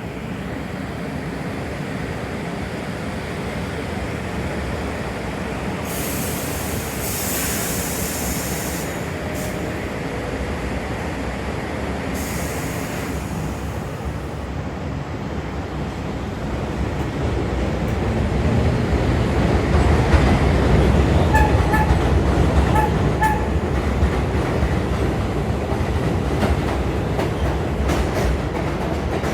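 R142A subway train running on the line: a steady rumble of wheels on rail, with two bursts of high hissing about six and twelve seconds in. The rumble grows louder from about two-thirds of the way in, with a few short high beeps.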